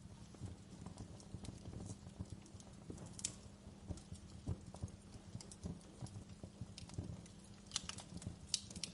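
Wood fire crackling in a fireplace: a dense, irregular patter of low pops and small snaps, with a sharper, louder snap about three seconds in and a cluster of bright snaps near the end.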